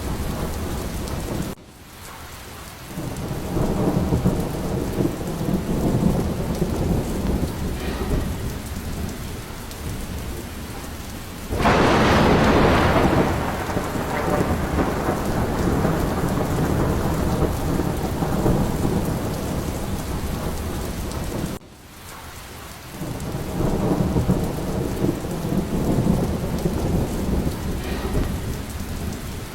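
Steady heavy rain with rolling thunder rumbling in slow swells. About twelve seconds in, a louder thunderclap breaks in sharply and fades away slowly. Twice the sound dips abruptly for a moment before the rain and rumble build back.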